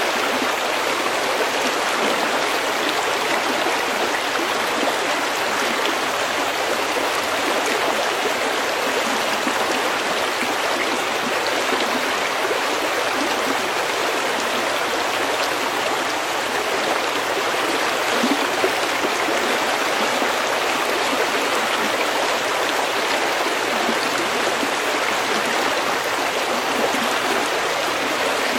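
Shallow stream running steadily over stones, a continuous dense rush and babble of water with small splashes flickering through it.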